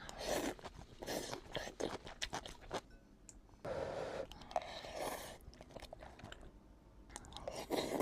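Close-miked chewing and crunching of food, in irregular crisp bites and crunches with a longer crunch about halfway through.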